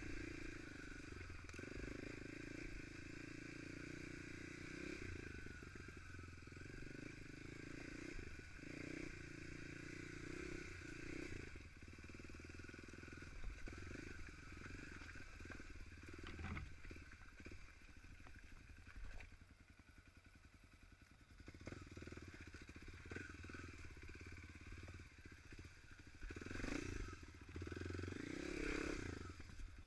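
Dirt bike engine running at low revs over a rough, rocky trail, with scattered knocks and clatter from the bike. It drops to a quieter low idle around the middle, then revs up in short surges near the end.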